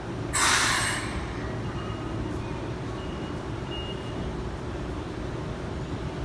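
Keikyu 1000-series train at a station platform: a short, loud hiss of air about half a second in, then a steady low rumble from the train.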